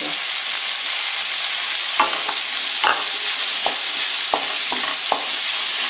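Chopped bitter gourd, onion and tomato sizzling in hot oil in a pan, with a steady hiss. About two seconds in, a wooden spatula starts stirring and scraping them, with about ten sharp taps against the pan.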